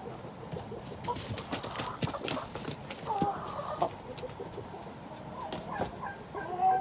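Chickens clucking and calling in short bursts, with a run of sharp clicks and scuffling sounds in the first few seconds.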